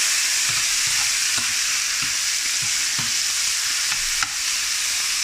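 Diced veal hearts and onions sizzling in hot olive oil in a frying pan, a steady high hiss, with light scattered knocks and scrapes of a utensil stirring the sauté. A single sharp click about four seconds in.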